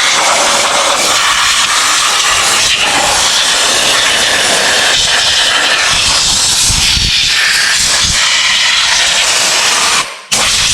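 Continuous loud hiss of spray being directed onto a rust-seized outboard engine, breaking off for a moment near the end before starting again.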